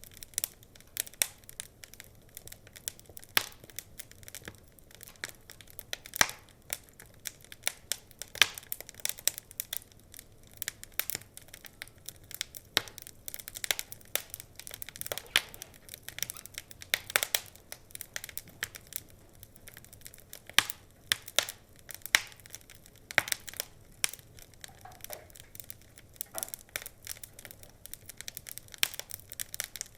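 Wood fire crackling: irregular sharp pops and snaps over a soft steady hiss of burning logs.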